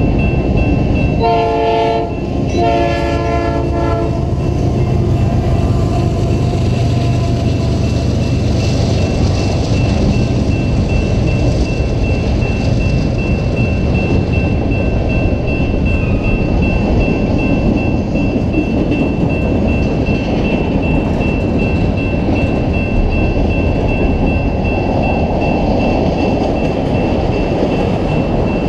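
Canadian Pacific freight train's locomotive horn sounding two blasts, the second longer, about a second in; then the freight cars rumble steadily past close by, their wheels clattering over the rail.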